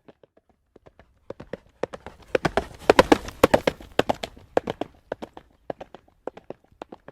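A horse trotting on a hard road, its hooves clip-clopping. The hoofbeats are faint at first, grow loud about two seconds in, then fade again.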